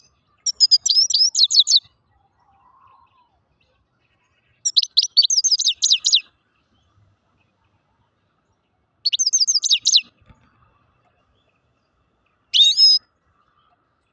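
Grey-headed (Altai) goldfinch singing: three short bursts of rapid high twittering notes, each a second or so long, then a single short call near the end.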